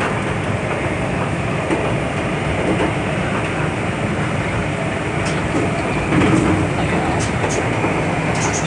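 MTR M-train electric multiple unit running along the track: a steady rumble and rattle of wheels and motors, with a few brief clicks in the second half.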